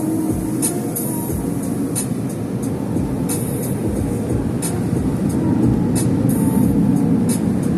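Automatic car wash running: a steady rumble with short, frequent hisses of spray.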